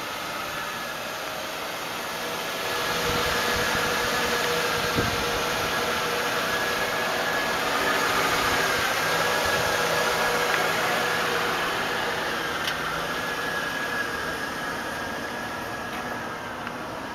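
The 2000 Lincoln Town Car limousine's 4.6-liter V8 idling: a steady hiss with a faint whine. It gets louder about three seconds in and eases off toward the end.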